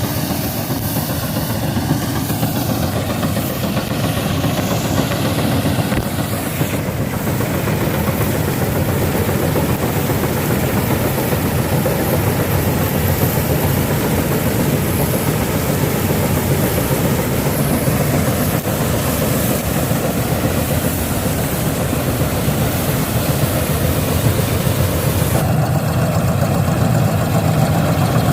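Mini combine harvester running steadily while cutting wheat: a diesel engine with the rattle and clatter of the threshing machinery.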